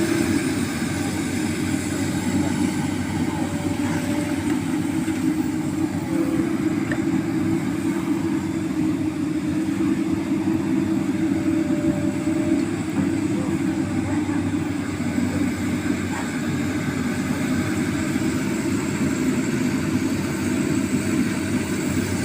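Excavator's heavy diesel engine running steadily under working load.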